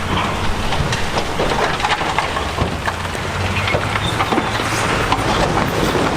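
Heavy diesel earthmoving machinery running steadily, with irregular clanking and clattering of steel crawler tracks and rocks.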